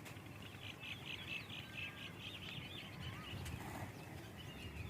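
Birds chirping: a quick run of short, high chirps for the first couple of seconds, then a few scattered calls, over a low rumble.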